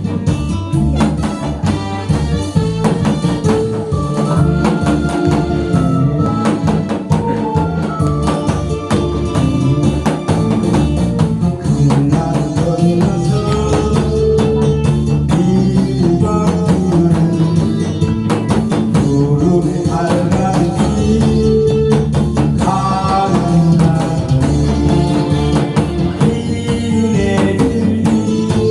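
Instrumental backing track playing loudly, with a drum kit beat and a melody line.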